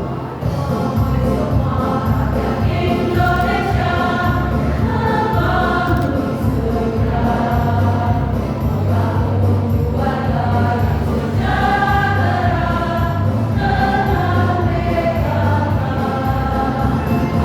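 Choir singing a song in competition, over a low, steady bass accompaniment.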